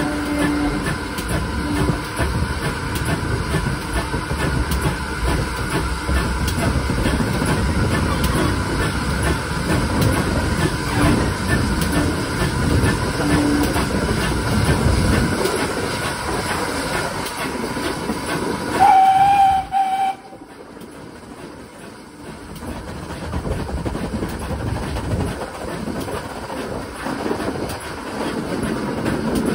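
A steam train running, pulled by a pannier tank locomotive, with a steady rumble and wheels clicking over the rail joints. About two-thirds of the way through, a steam whistle sounds once for about a second, the loudest moment. Right after it, the sound drops suddenly to a quieter rumble that slowly builds again.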